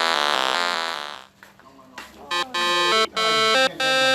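Buzzy electronic tones in a fast warbling pattern fade out about a second in. After a short pause, an electronic melody of held notes with short gaps begins.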